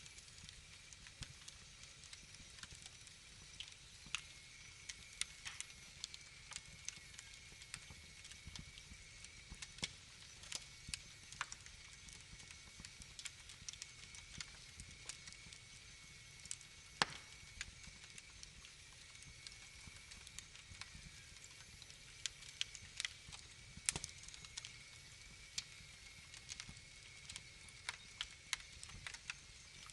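Wood fire crackling in a fireplace: irregular sharp pops and snaps over a soft steady hiss, with one louder snap partway through.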